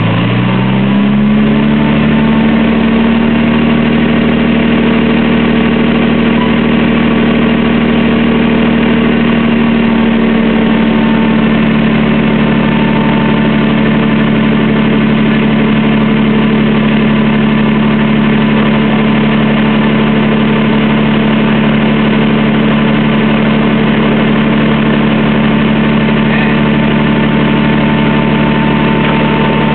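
Nissan Skyline R32's engine running on a chassis dyno. Its speed rises over the first second or two, then holds one steady engine note for the rest of the time.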